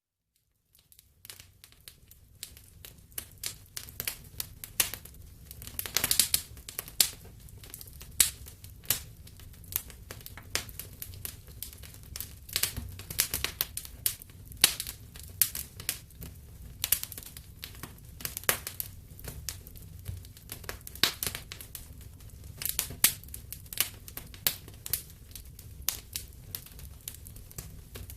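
Wood fire in a fireplace crackling, with irregular sharp pops and snaps over a low steady rumble of flames. It fades in from silence in the first second or two.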